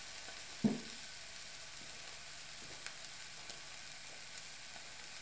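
Faint, steady sizzle of a duck breast frying skin side down in a dry pan as its fat begins to render, with one brief thump near the start.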